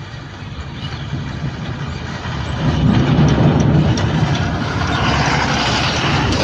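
Heavy diesel machinery engine running at a work site, growing clearly louder about two and a half seconds in as it works under load.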